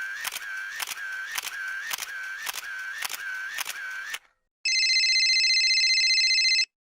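Two short stock sound effects. The first is a run of sharp clicks, about two a second, over a wavering tone, which stops about four seconds in. After a short gap comes a steady electronic tone of several pitches lasting about two seconds, which cuts off suddenly.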